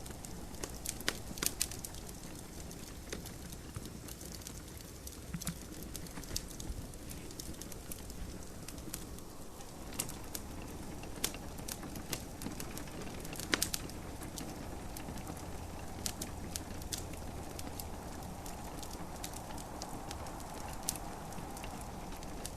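Wood fire crackling in a fireplace: irregular sharp pops and snaps, a few a second, the loudest about a second in and again past the middle, over a steady hiss of rain.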